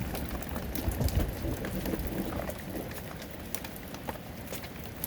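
Hailstones and heavy rain pelting down, with a constant hiss broken by many sharp clicks as individual stones strike. A low rumble in the first second fades away.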